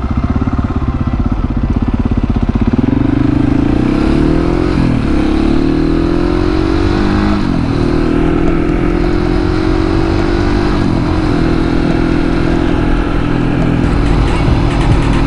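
Husqvarna 701's single-cylinder engine pulling hard through the gears: its pitch climbs, drops sharply at upshifts about five and seven and a half seconds in, then holds steady at cruising speed.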